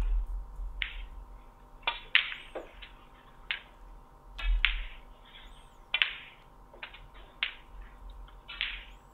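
A small bird chirping in short, repeated calls, about one every second or so, a few of them starting with a sharp click.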